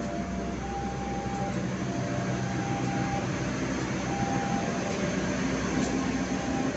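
Passenger coaches of a shunting trainset rolling slowly past on the rails, with a steady low drone and rumble. Brief high-pitched squeals come and go several times.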